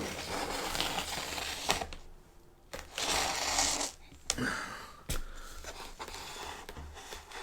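Styrofoam packaging and box being handled: rustling and scraping, with a few sharp clicks and knocks and a brief pause about two seconds in.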